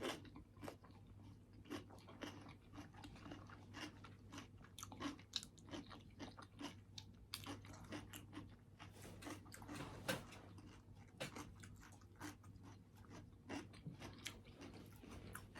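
Quiet, close-miked chewing with many irregular crisp crunches as a person bites into and chews crunchy food.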